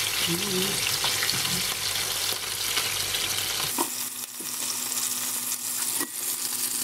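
Duck pieces and chopped onion, carrot and pepper sizzling in oil in frying pans: a steady frying hiss. A fork stirs the vegetables, and a spatula and fork scrape at a clay pot. The sizzle turns quieter about four seconds in, and there are a couple of light utensil clicks.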